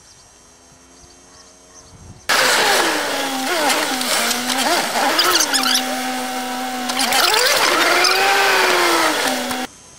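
A car engine and road noise heard from inside the car, starting abruptly about two seconds in. The engine note drops, wavers, holds steady, then rises and falls again, and the sound cuts off sharply just before the end.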